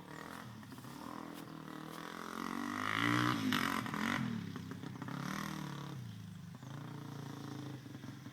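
Suzuki motocross bike engine revving up and down as it is ridden, loudest and highest about three seconds in, with a second rise about five seconds in.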